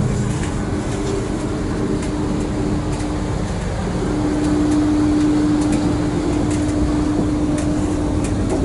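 Inside the coach of an Intercity Express Train on the move: a steady low rumble of the running train with a constant hum that grows louder about four seconds in, and a few faint ticks.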